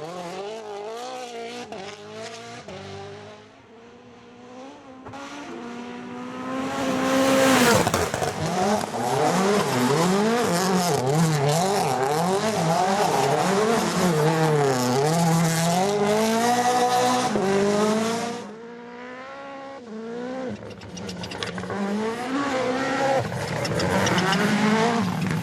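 Rally car engine revving hard, its pitch rising and falling again and again with the throttle. It swells loud about a quarter of the way in, stays loud for around ten seconds, then drops away and builds again near the end.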